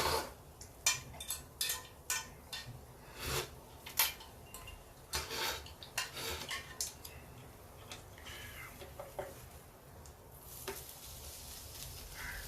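Cutlery clinking and scraping against a plate during eating, a quick string of sharp clicks over the first half, thinning to a few soft clicks over a faint hiss.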